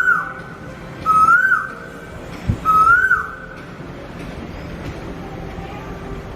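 Cuckoo calling: three whistled notes about a second and a half apart, each rising and then dropping sharply, followed by a pause with only faint background noise.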